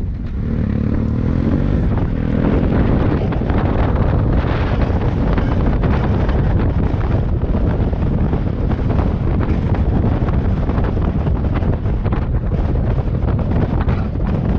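Motorcycle engine pulling away with a rising pitch over the first two seconds, then running on under heavy wind noise on the microphone while riding.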